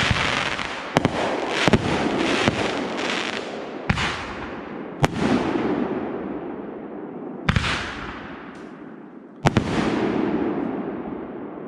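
Aerial fireworks going off: a string of about seven sharp booms, each followed by a fading crackle, the later ones spaced further apart.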